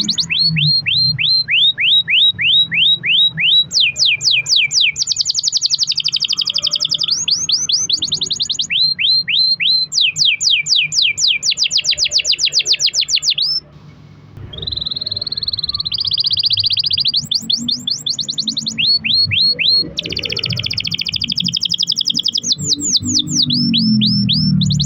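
Domestic canary singing long trilled rolls: runs of rapidly repeated downward-sweeping whistled notes that switch from one pattern to the next, with a brief pause about halfway through.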